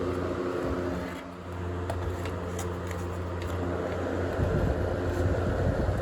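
Duracraft DT-50 10-inch table fan running with a steady motor hum. About a second in the sound dips briefly and the hum changes as the fan moves between speeds, and a few faint ticks follow.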